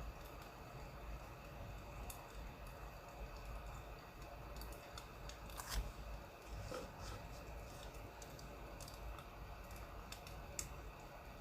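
Faint crackling of burning firewood: sparse, irregular small pops and clicks over a low steady rumble, with a louder snap about six seconds in.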